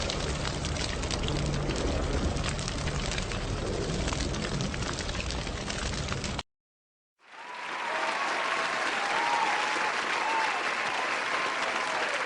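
A steady rushing noise with a low rumble, cut off abruptly about six seconds in. After a short silence a crowd starts applauding, rising quickly to a steady level, with a few whistles.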